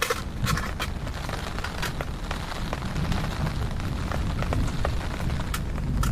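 Heavy rain falling, with many scattered sharp drop taps over a steady low rumble.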